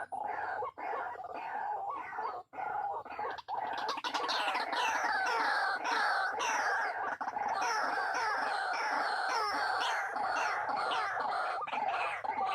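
White-breasted waterhens calling: many quickly repeated calls overlapping in a dense chorus that grows louder and busier about three and a half seconds in.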